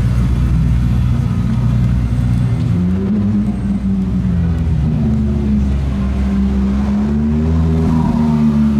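Sports car engine running at low revs with a deep rumble; from about three seconds in, its note rises and falls gently as the throttle is worked.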